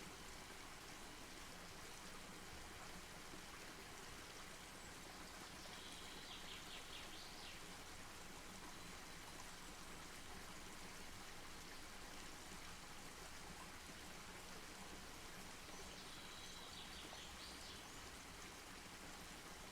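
Faint campfire burning with a steady hiss and light crackles. Twice, a short high trill of rapid notes rises over it.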